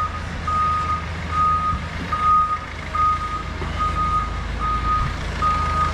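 A vehicle's reversing alarm beeping steadily, one even high beep about every 0.8 seconds, over the low rumble of an engine.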